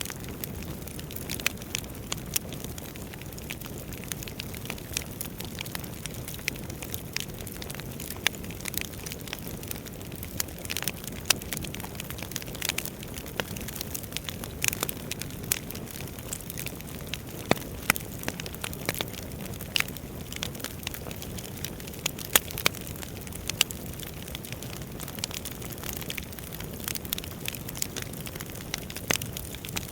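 Wood fire burning in a fireplace: a steady low rumble of flames under frequent irregular crackles and sharp snaps of burning logs.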